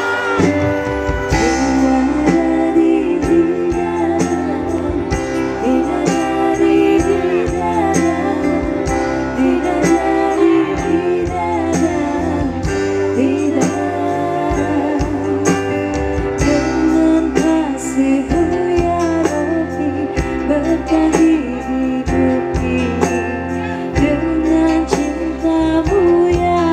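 Live amplified band music with a woman singing the melody over a steady bass and a regular drum beat.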